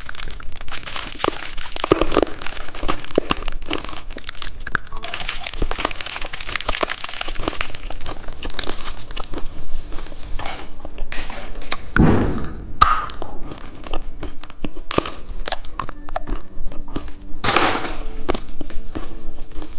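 Close-up mukbang handling and eating noises: candy packaging crinkling, with a steady run of small clicks and crunches. A dull thump lands about twelve seconds in.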